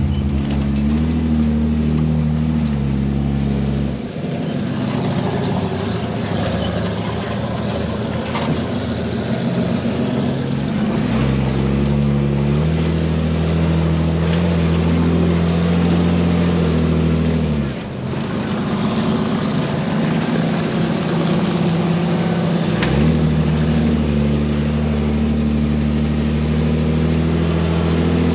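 Off-road recovery vehicle's engine running while driving a rough dirt trail, its note rising as it is given throttle about a second in, again around twelve seconds and again around twenty-three seconds. In between, the engine note falls away for several seconds at a time, leaving a rattly road noise.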